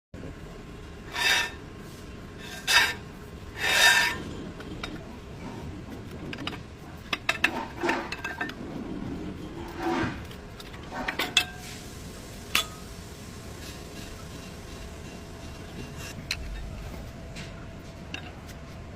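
Hand work on metal parts: three loud rasping, scraping strokes in the first four seconds, then scattered clinks, knocks and short scrapes.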